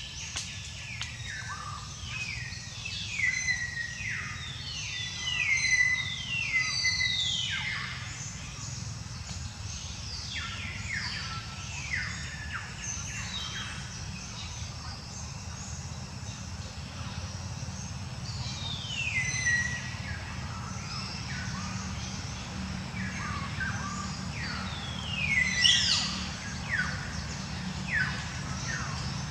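Birds calling: repeated high whistles, each falling sharply in pitch, coming in several bouts, over a steady low hum.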